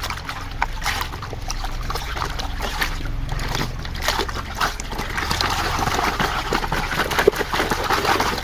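Water splashing and sloshing as a muddy plastic toy vehicle is washed by hand in a tub of water, with small clicks and knocks. The splashing gets louder about halfway through and stops abruptly at the end.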